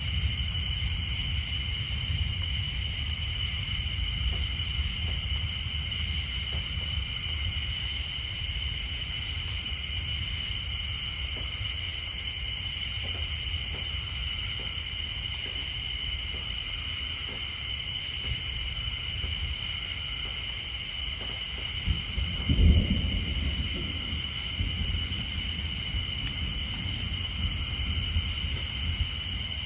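Steady night chorus of tree frogs and insects, one high band pulsing about once a second, over a low rumble of distant thunder that swells briefly about 22 seconds in.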